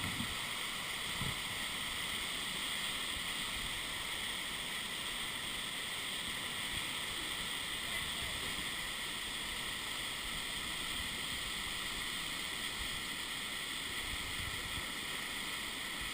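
Steady rush of white water on a river rapid.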